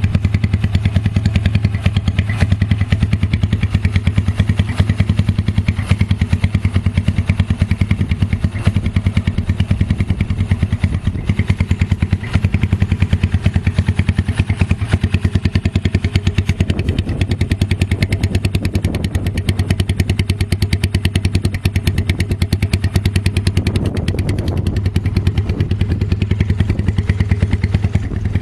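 Single-cylinder engine of a 2012 Cleveland CycleWerks Misfit motorcycle running at a steady idle through its exhaust, a rapid, even thumping with some clatter.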